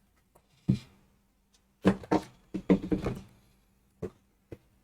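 Cardboard shipping box being handled and opened: a series of short knocks and thumps, with a busy cluster around the middle.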